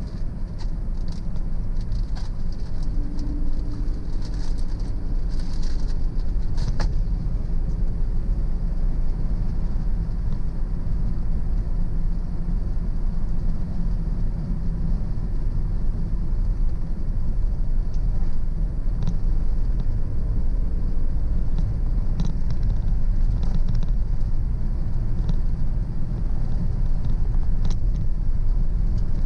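Car driving at a steady speed: continuous low engine and tyre rumble, with faint clicks or rattles in the first several seconds.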